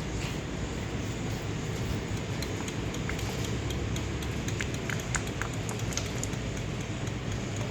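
Steady low hum of workshop machinery, with a few light clicks and taps around the middle as engine parts and tools are handled.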